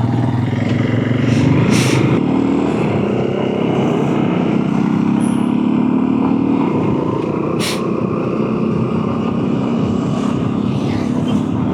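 Honda CRF300 dual-sport motorcycle engine running steadily while riding along a road, with continuous wind and road noise.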